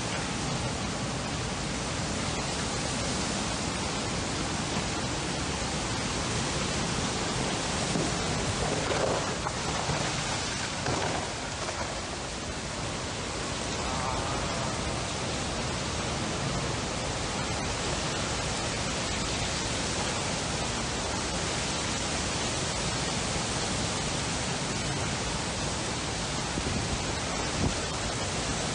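Strong squall wind blowing in a steady, dense rush, with a brief swell about nine seconds in and a short knock near the end.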